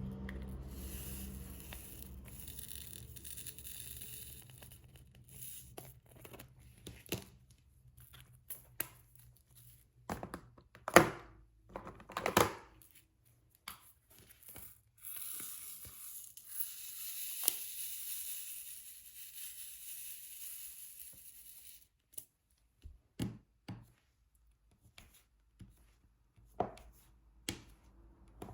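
Diamond painting materials handled close up: two long stretches of crinkling, tearing-like plastic rustle, one at the start and one in the second half. Between them come scattered light taps and clicks, the loudest two about midway.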